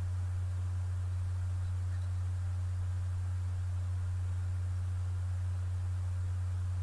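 A steady, unbroken low hum on one pitch, the kind of electrical mains hum that runs under a recording.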